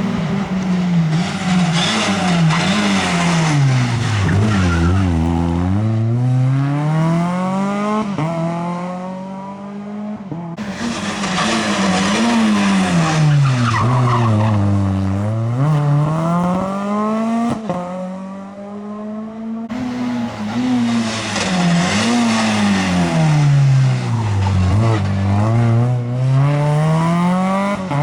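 Rally cars driven hard on a special stage: the engine note climbs and drops again and again as the drivers accelerate, change gear and brake into corners. Three separate passes follow one another, each starting abruptly.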